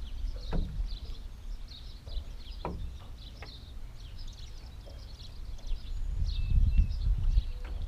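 Birds chirping over and over in short high notes, over a low rumble of wind on the microphone that grows louder near the end, with a few brief sharp knocks.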